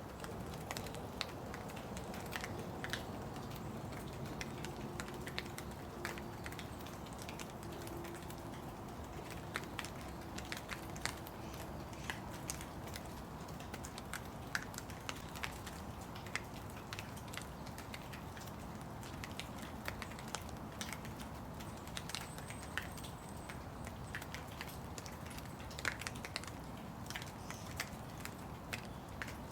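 Steady rain with a soft hiss and many separate drops tapping close by at irregular moments.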